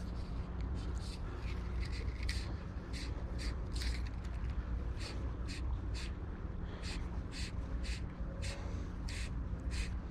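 A long series of short, harsh bird calls, about two to three a second, over a steady low rumble.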